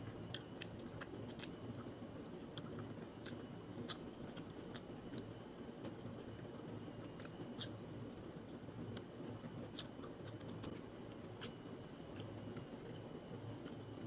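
A person chewing food close to the microphone: irregular sharp, crisp clicks and crunches of the mouthful, over a steady low background hiss.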